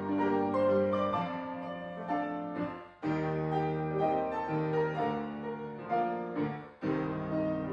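Background piano music: sustained chords and melody notes, with the level dropping briefly about three seconds in and again near the end before the next phrase begins.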